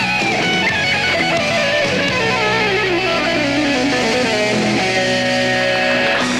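Rock band playing the closing bars of a song, led by electric guitar: a melodic line falls in pitch over a few seconds and then gives way to held notes.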